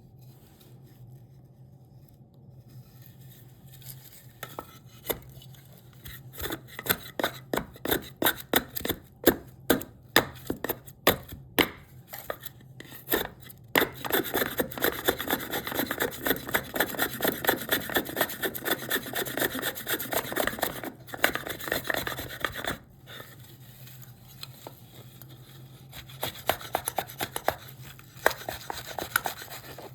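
Hand tool scraping cherry wood in repeated strokes. It starts with separate sharp strokes at about three a second, then a fast, dense run of strokes lasting about ten seconds, a short pause, and more strokes near the end.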